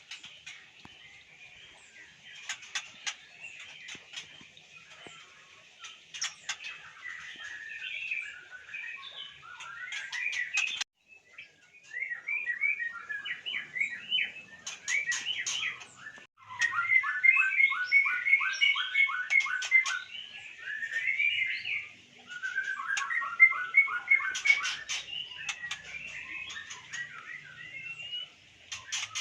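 White-rumped shama singing: a long run of varied whistled phrases with quick runs of repeated notes, mixed with sharp clicks.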